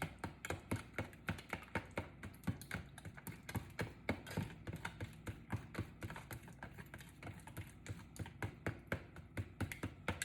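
Eggs and buttermilk being beaten by hand in a bowl, the mixing utensil clicking against the bowl in a quick, uneven run of several taps a second.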